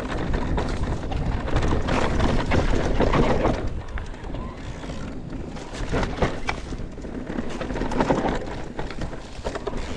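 Mountain bike descending a rough, rutted dirt trail: tyre noise over dirt and rock, with frequent knocks and rattles from the bike.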